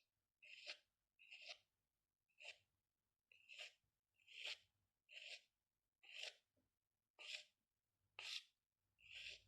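Faint, rhythmic strokes of a pen drawing on paper, about one stroke a second, each a short scratchy swish.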